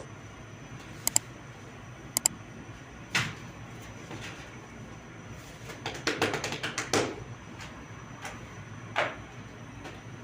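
Scattered sharp clicks and knocks, with a quick run of about eight knocks around the middle, over a steady background noise, typical of hands working with tools and dough at a bread-making bench.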